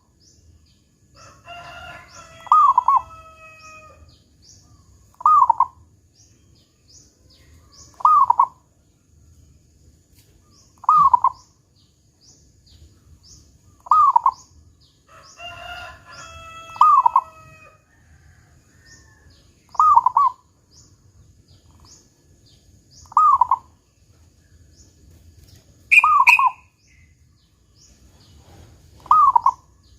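Zebra dove (perkutut) cooing: a short loud call repeated about every three seconds, eleven times. A longer crowing call from another bird sounds twice, and faint high chirps tick along throughout.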